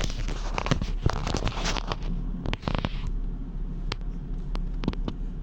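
2011 Chevrolet Camaro SS's 6.2-litre V8 idling as a steady low rumble, with scattered sharp clicks and short rustling noises over it.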